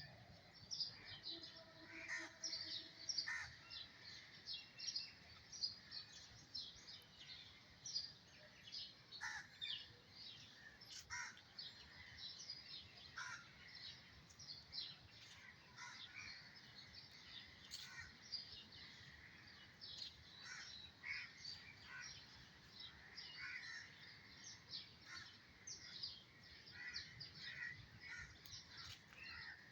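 Birds calling and chirping over one another, many short overlapping calls without a break, faint.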